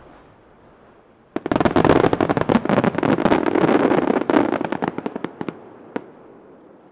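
Aerial fireworks: dozens of small bursts pop in a dense, rapid crackle for about four seconds, thinning out toward the end, with one last lone pop.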